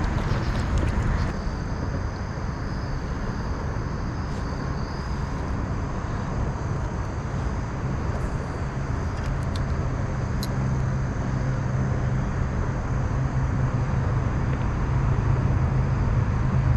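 Steady low rumbling outdoor noise, a little louder near the end, with a few faint clicks around the middle.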